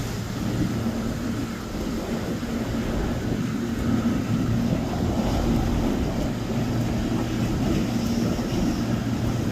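Motorboat engine running at a steady drone, with wind buffeting the microphone.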